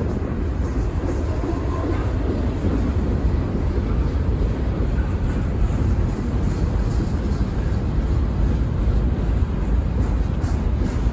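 Freight train rolling past, a steady rumble of railcar wheels on the rails.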